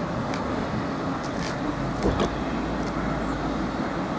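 Train running at a station platform: a steady rumble, with a deeper low drone coming in about halfway and a single knock just after it starts.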